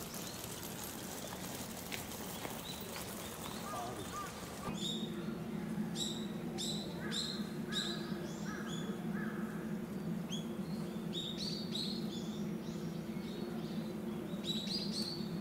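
Small birds chirping in short, repeated high notes, joined by a steady low hum about five seconds in.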